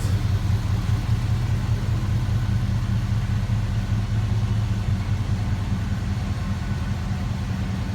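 1968 Chevy K10 pickup's engine idling steadily shortly after a cold start.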